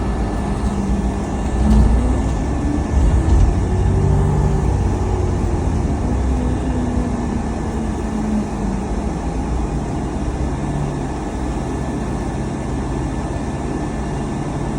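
A car on the move: a steady low engine and road rumble, with the engine's pitch rising and falling in the first half, then holding steadier.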